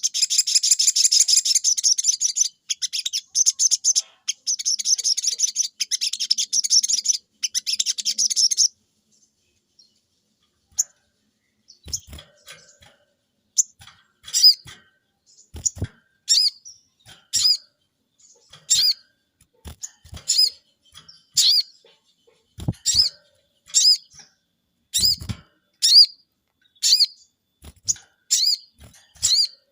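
Caged sogon bird calling: a dense, rapid, high chattering run for about the first nine seconds, then after a short pause a string of short repeated high call notes about once a second, a few of them with soft low thumps. This steady calling is the gacor, vocal state that daily sunning is meant to bring on.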